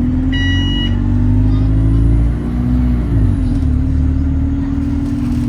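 Bus engine droning low inside the bus, with a short steady stop-request bell chime about half a second in; the engine note dips and changes pitch about halfway through.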